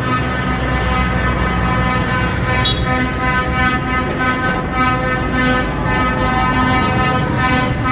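A vehicle horn sounding long and in repeated pulses over the low rumble of tractor and lorry engines running.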